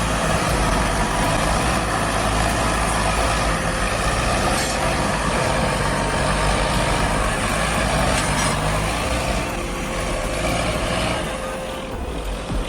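Large tractor engine running steadily with a heavy mechanical drone, easing off slightly near the end.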